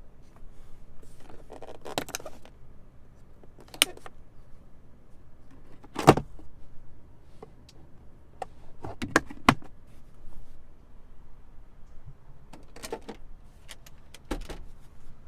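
Clicks and knocks from handling a 2020 Toyota Sienna minivan's doors and controls. They come as a scattered series, with the loudest a single knock about six seconds in.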